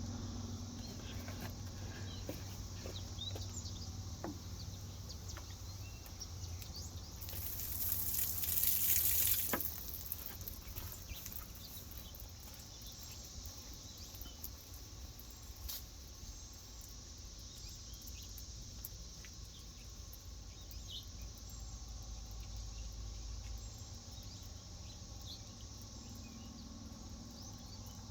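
Water running and splashing for about two seconds, some eight seconds in, as ant moats are rinsed and refilled, over a steady insect buzz, a low hum and scattered small clicks and knocks.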